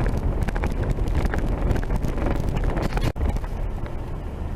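Vehicle driving on a rough dirt road: a steady low rumble with frequent rattles and knocks, and wind on the microphone. The sound drops out briefly about three seconds in.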